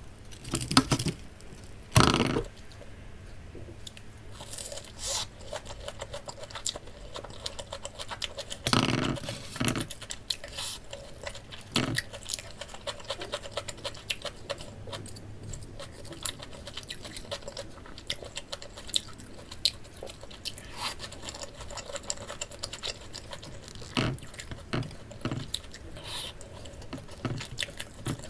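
Close-miked eating of crispy breaded pork cutlet: crunchy bites and chewing, with a few louder clatters of utensils against a plate.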